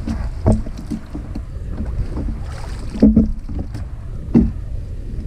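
Wind buffeting the microphone on a kayak on open water, a steady low rumble, with three short knocks, the loudest a little after the middle.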